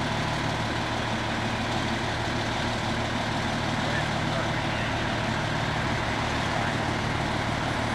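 A fire engine-tanker's engine running steadily: a constant low hum under even noise, with no change in pitch.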